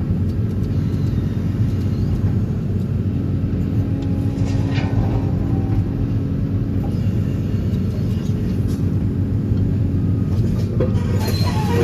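Excavator-mounted DPD350T vibratory pile hammer running steadily, a continuous low drone. A steady tone joins the drone a few seconds in and fades out after about six seconds. Higher-pitched squealing starts just before the end.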